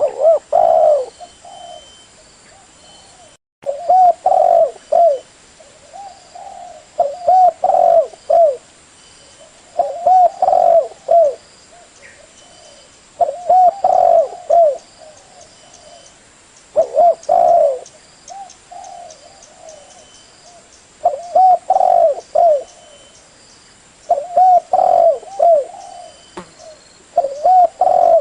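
Spotted dove cooing: a short phrase of several rounded coo notes, repeated about every three to four seconds. It is the call played as a decoy to lure doves.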